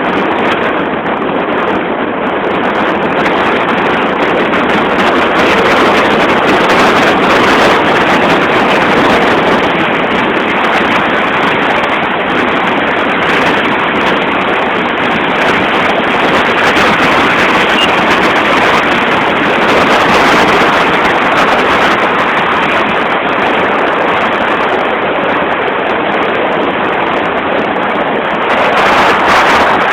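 Steady rushing road and wind noise from a moving car, swelling and easing slightly.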